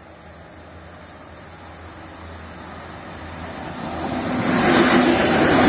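A locomotive-hauled train approaching at speed, its noise growing steadily louder and reaching full strength about four and a half seconds in as the locomotive passes close by.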